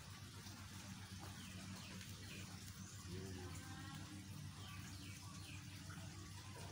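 Quiet background of a steady low hum, with faint bird chirps, short falling notes, heard several times.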